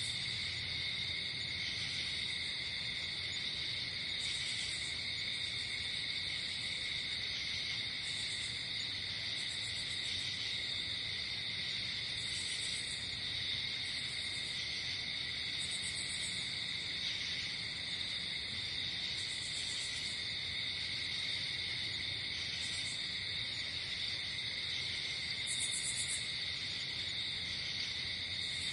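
Night chorus of crickets: a steady high trill, with short, higher buzzy chirps every two to three seconds.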